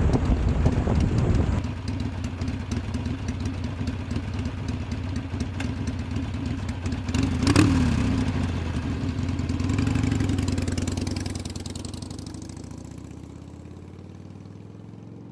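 Motorcycle engine running steadily, with a brief rise and fall in pitch about seven and a half seconds in, then fading away over the last few seconds.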